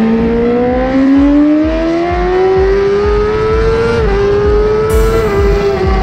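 Suzuki GSX-R1000R's inline-four engine, breathing through a full racing exhaust, pulling hard under full throttle: its pitch climbs steadily, with two brief small dips about four and five seconds in as it is shifted up a gear, with a quickshifter.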